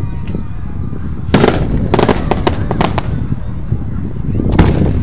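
Aerial fireworks going off: a loud bang about a second in, a quick run of sharp cracks over the next second, and another bang near the end, over a steady low rumble.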